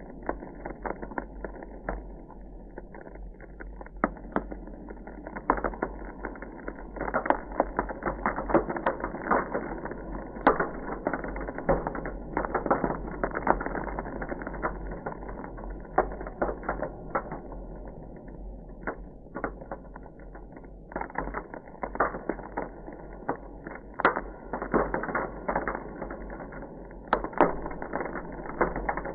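Ice crackling: a dense, irregular run of sharp cracks and pops, thicker in some stretches and sparser for a few seconds past the middle.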